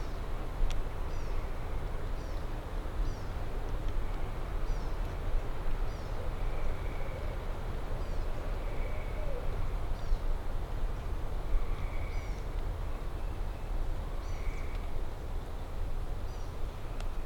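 Low, steady rumble of wind on the microphone, with a small songbird repeating a short, high chirp about once a second.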